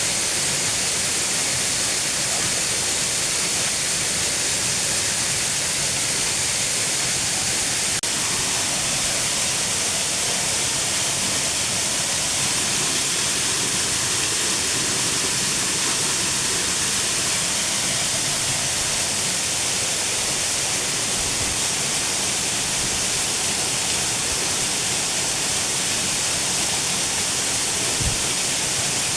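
Steady rushing of a waterfall, an even, unbroken wash of water noise. A single small knock comes near the end.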